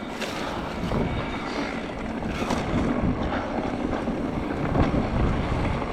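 Mondraker Crafty R mountain bike descending a rough forest trail: tyres rumbling over dirt and the bike rattling, with scattered sharp knocks from roots and rocks. Wind rushes on the microphone.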